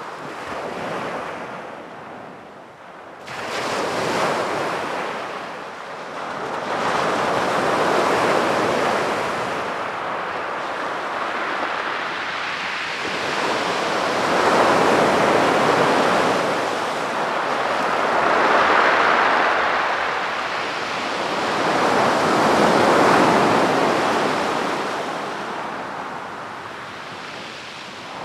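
Sea waves breaking and washing up on a beach, swelling and falling away about every four to five seconds.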